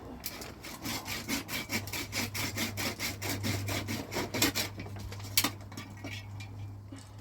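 Rapid rhythmic rasping strokes, about five a second, which stop about five seconds in, over a steady low hum.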